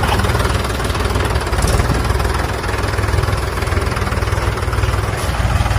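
Mini tractor's engine running steadily with a fast, even chugging.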